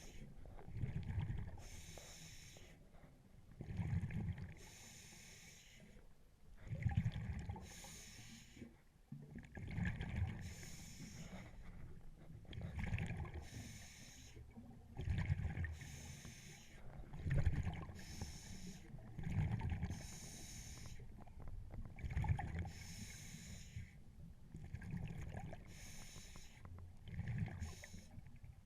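Scuba diver breathing through a regulator underwater: a hiss with each inhale alternates with the low bubbling rumble of exhaled air, one breath about every two and a half seconds.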